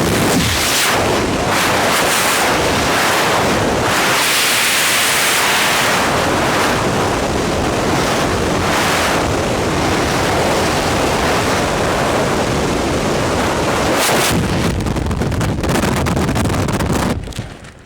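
Freefall wind rushing hard over the camera microphone during a skydive, an even loud roar that drops off sharply near the end as the parachute opens and the fall slows.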